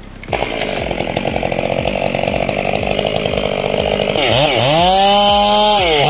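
Chainsaw running at a steady pitch. About four seconds in its pitch dips and climbs back up, holds high, and near the end dips once more.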